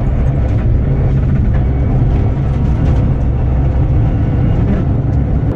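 Subaru Impreza N11 Group N rally car's turbocharged flat-four running hard and steady in fourth gear, heard from inside the cabin, with tyre and road noise on the snow.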